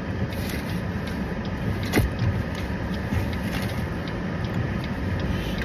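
Steady low rumble of a running vehicle, with one sharp click about two seconds in.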